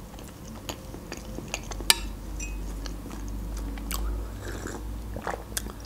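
Close-miked chewing of meringue roll, with soft wet mouth sounds and small crackling clicks, and one sharp click about two seconds in.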